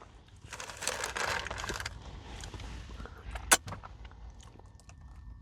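Crunchy Nature Valley granola bar being bitten and chewed close to the microphone: a stretch of crackling crunch about half a second in that lasts about a second and a half, then one sharp crack at about three and a half seconds and a few faint ticks.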